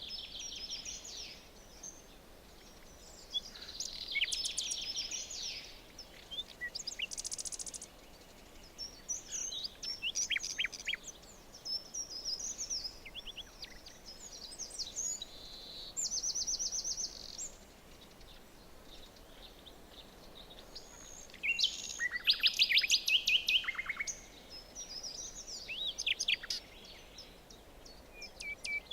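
Several forest songbirds singing and calling over one another: short chirps, whistled phrases and fast repeated notes, with the loudest, a rapid trill, about three-quarters of the way through, over a faint steady background hiss.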